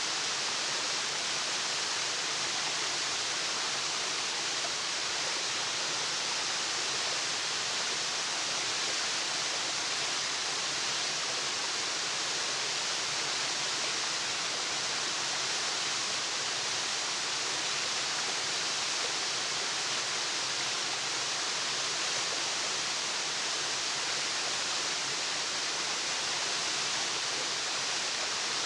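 Waterfall rushing: a steady, even hiss of falling water, strongest in the high range, with no change throughout.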